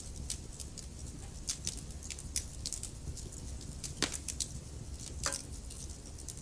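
Wood fire burning, with irregular sharp crackles and pops of logs over a low steady rumble of the flames; the loudest pops come about four and five seconds in.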